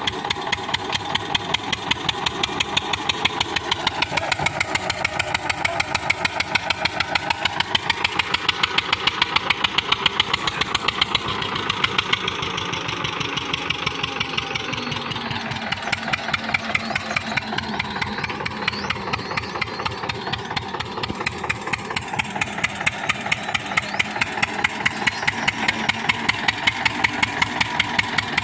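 Diesel tractor engine running steadily with a rapid, regular chug, its speed drifting up and down a little.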